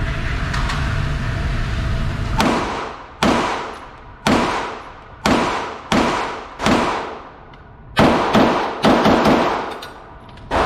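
A string of about ten 9mm pistol shots, each with a ringing echo: evenly spaced at about one a second at first, then four fired quickly near the end. A steady low rumble comes before the first shot.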